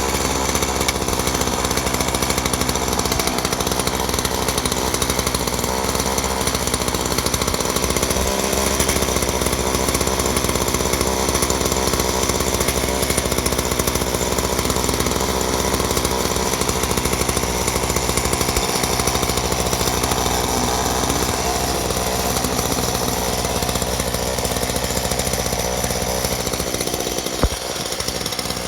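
Ryobi 38cc two-stroke gas chainsaw running steadily, with a brief knock near the end after which it runs a little quieter.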